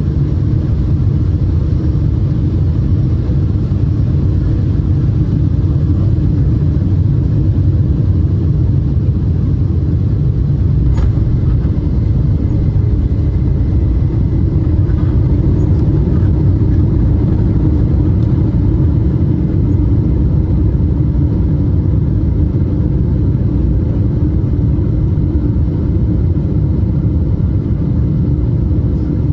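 Steady low rumble of a Boeing 777-200 airliner heard from inside the cabin, jet engine and airflow noise with no change in level, and a faint click about eleven seconds in.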